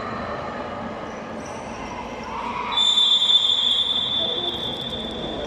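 A whistle blown in one long, steady blast that starts about halfway through and fades slowly.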